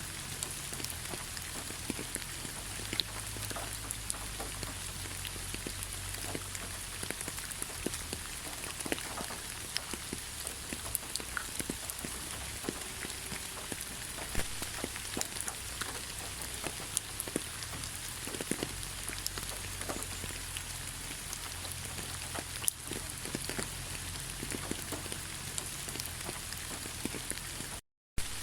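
Steady rain falling in a pine forest, with many single drops tapping close by over the even hiss. The sound cuts out for a split second near the end.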